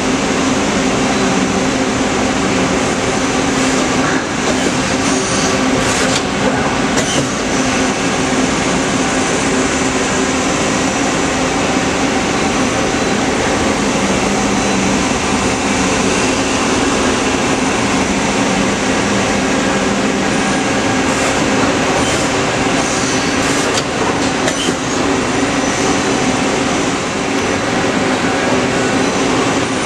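Mori Seiki SL-250B CNC lathe running, a steady mechanical hum with several held tones and a few light clicks.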